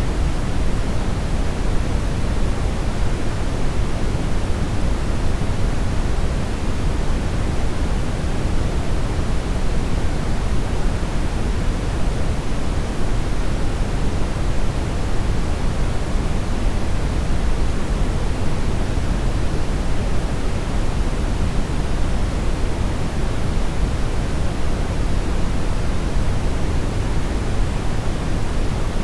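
Synthetic brown noise: a steady, even rush of noise weighted toward the low end, with no changes.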